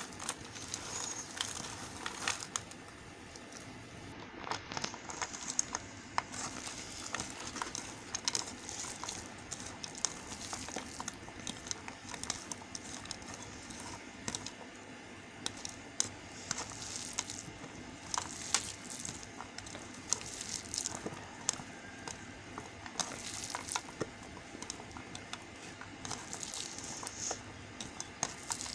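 A knife cutting and scraping through bar soap: crisp, irregular crackles and small clicks over a light hiss.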